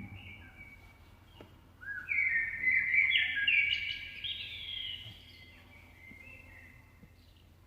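Bird chirping sound effect played to the dogs: a run of short, high chirps, loudest between about two and five seconds in, with fainter chirps before and after.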